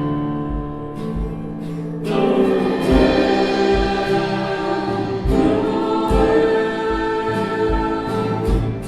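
Worship band playing a gospel-style song with voices singing sustained notes. The music swells about two seconds in, over a steady low drum beat.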